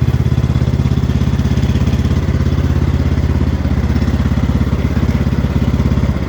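Cub Cadet XT1 Enduro Series garden tractor engine running steadily with an even low pulsing beat while the tractor is driven slowly.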